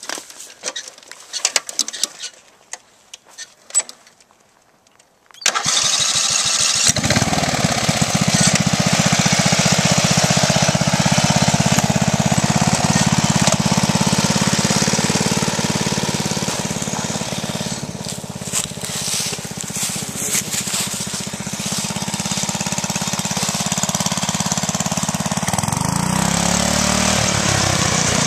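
Riding lawn mower engine cranked over and catching about five seconds in, after a few clicks, then running steadily. Near the end its pitch swings as it is revved.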